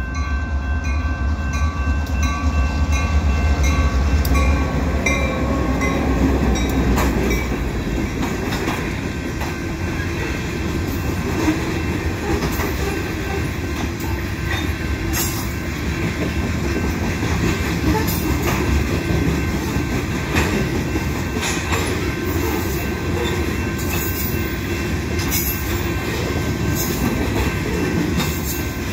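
A freight train led by two EMD GP38-series diesel locomotives passing close by: a heavy engine rumble in the first few seconds, then a string of tank cars and covered hoppers rolling past with a steady rumble and the wheels clacking over rail joints. A level-crossing bell rings throughout.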